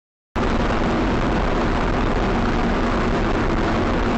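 Steady road and engine noise of a moving car heard from inside the cabin, cutting in abruptly about a third of a second in after dead silence.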